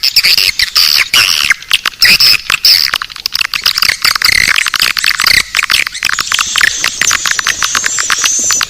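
Swiftlet lure-call recording: dense, rapid chirping and clicking of many edible-nest swiftlets, with high rising twitters joining about six seconds in. It is played in swiftlet houses to call the birds in.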